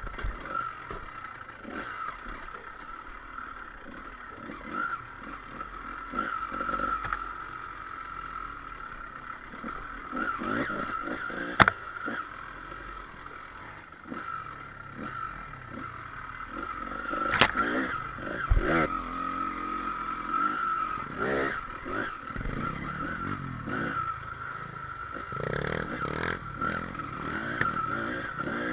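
Enduro dirt bike riding a rough trail: engine running with rattles and scrapes, and two sharp knocks about six seconds apart.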